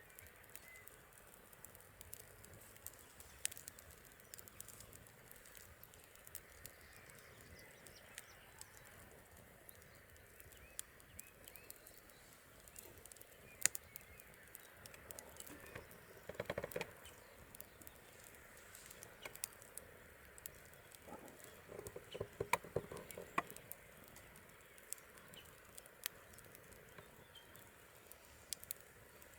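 Campfire crackling faintly, with scattered sharp pops and two denser bursts of crackle, one around the middle and one about two-thirds through.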